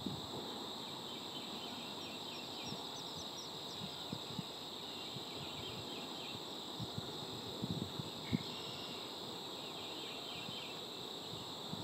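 Marsh ambience: a steady high insect drone, with two spells of faint, quick bird chirps, one early and one near the end. A few soft low thumps fall a little past the middle.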